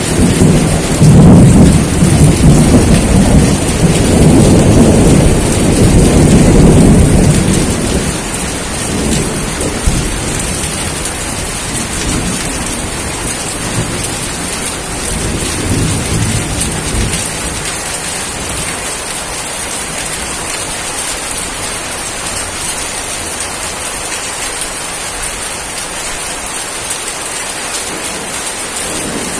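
Steady heavy rain hissing, with a long roll of thunder rumbling low in the first several seconds and dying away about halfway through, leaving only the rain.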